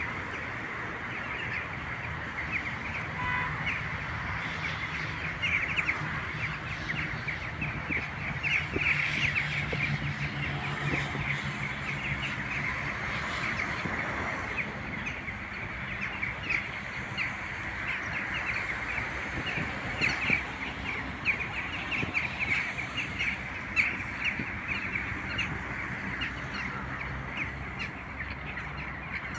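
A large flock of birds calling continuously, many short overlapping calls forming a dense chorus.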